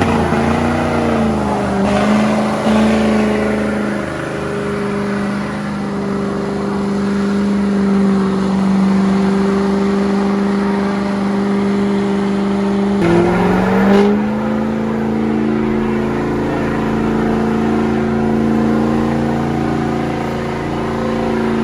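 Diesel pickup truck engine held at high revs for a burnout. The revs dip and climb back about thirteen seconds in, and fall away near the end.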